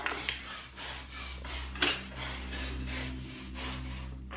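Scraping and rubbing noises, with one sharp click a little under two seconds in, over a low steady hum.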